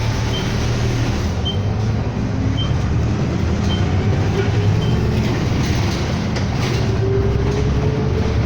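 City bus engine and road noise heard from inside the cabin, a steady low rumble with a whine that rises gradually in pitch over the last few seconds as the bus speeds up. Faint short high beeps come about once a second.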